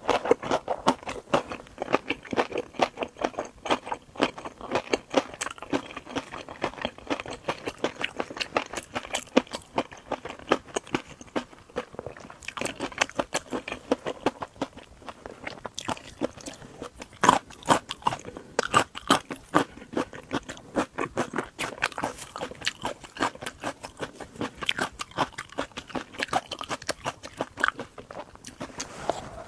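Close-miked crunching and chewing of shrimp: a dense, irregular run of sharp crunches with softer chewing between them.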